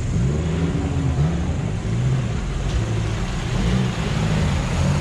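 4x4 off-road vehicle's engine revving up and down repeatedly as it drives through a flooded, muddy rut.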